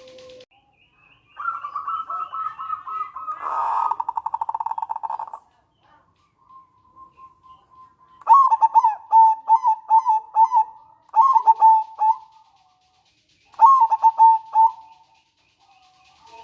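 Zebra dove (perkutut) calling: a run of quick notes that speeds up into a fast rattling trill for about four seconds (the nretek call), then after a pause two phrases of short staccato coos (the manggung song).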